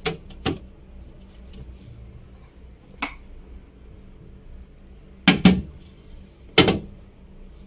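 Jars and food containers being set down on fridge shelves. There are a few light knocks and clinks, then two louder knocks with a brief ring in the second half.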